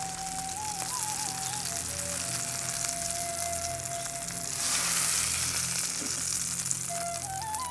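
Shami kebabs sizzling as they shallow-fry in hot oil in a frying pan, a steady hiss that grows louder for a moment just past halfway.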